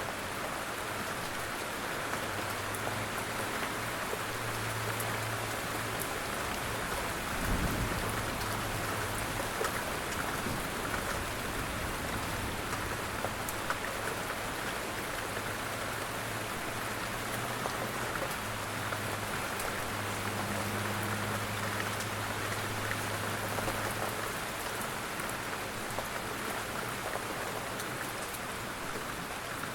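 Steady gentle rain falling, with scattered sharp drop ticks. A low hum comes and goes beneath it, and a brief low thump sounds about seven and a half seconds in.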